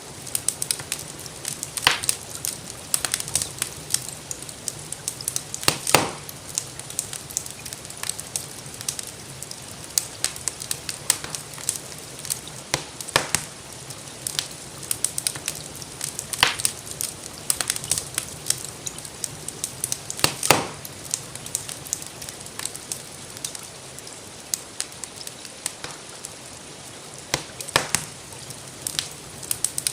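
Wood fire in a fireplace crackling, with irregular sharp pops, a few of them much louder, over a steady hiss of gentle rain.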